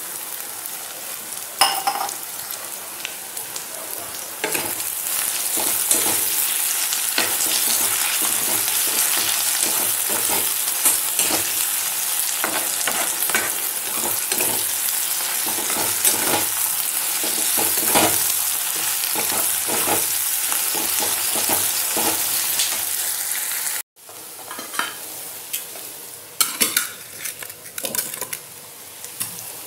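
Sliced red onions frying in hot oil in a metal kadai, a steady sizzle with the clicks and scrapes of stirring; the sizzle grows louder about four seconds in. After a cut about 24 s in, a quieter hiss with a few sharp clinks.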